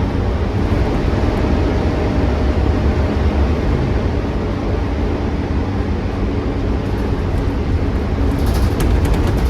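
Volvo B9TL double-decker bus's 9-litre straight-six diesel engine running steadily under way, a low rumble heard from inside the bus, with a few rattles near the end.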